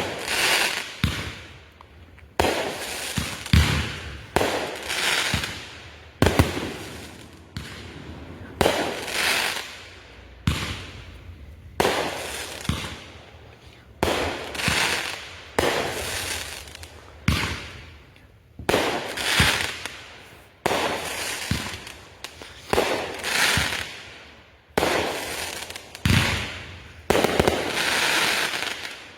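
Consumer fireworks going off in steady succession, roughly one sharp bang a second, each followed by a crackling hiss that dies away within about a second.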